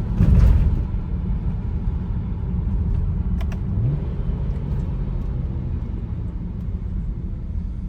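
BMW 335i's N55 turbocharged inline-six with an aftermarket BMS intake, driving. A loud rushing burst comes about half a second in, then a steady low engine and road rumble runs on, with a brief rising tone near the middle.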